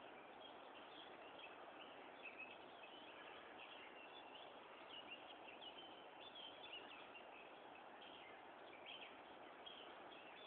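Faint bird chirps scattered over a steady low hiss, near silence.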